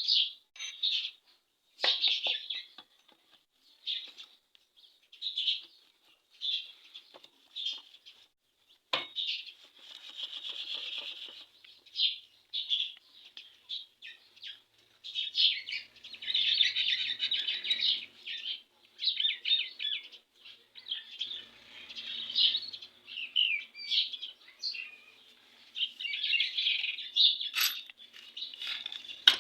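Small birds chirping in quick, irregular bursts throughout. A few sharp metal clicks from engine parts being handled come through, one about nine seconds in and another near the end.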